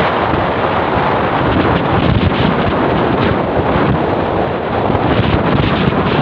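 Wind buffeting the microphone: a steady, loud rushing.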